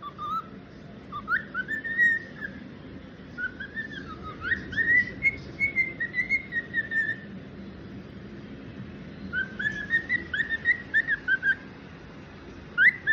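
Cockatiel whistling: runs of quick, chirpy whistled notes that slide up and down, with a pause of about two seconds around the middle.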